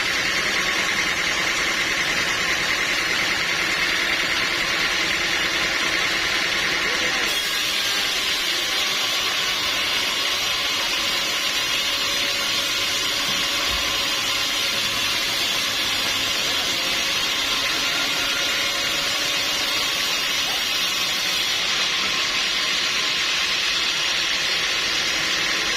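Sawmill machinery running steadily with a continuous mechanical noise. The noise changes abruptly about seven seconds in and again about twenty-one seconds in.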